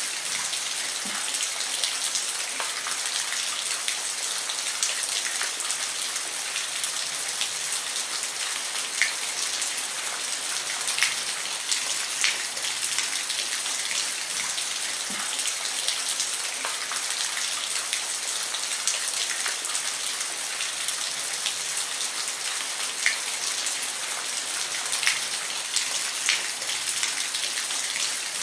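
Steady rain falling on a roof: an even hiss with scattered louder individual drop hits.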